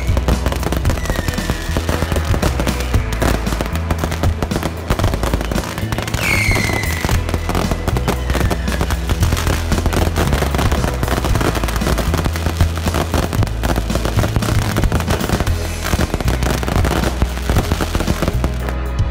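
Massed bottle rockets and firecrackers going off in a dense, continuous crackle, with rocket whistles falling in pitch near the start and again about six seconds in. Music with a steady bass line plays underneath, and the crackle stops just before the end, leaving only the music.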